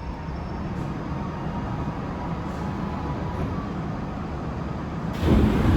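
Chiba New Town Railway 9100 series train car heard from inside: a steady low rumble, then about five seconds in a sudden, louder rush of noise.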